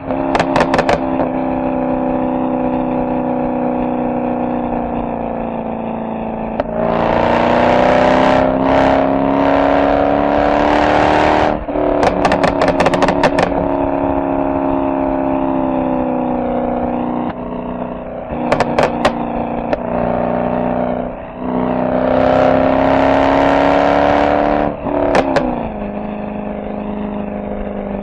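Mercedes-AMG SL63's V8 exhaust on the move, running steadily with two strong surges of acceleration, about seven seconds in and again about twenty-two seconds in. Short bursts of rapid crackling follow as the throttle comes off.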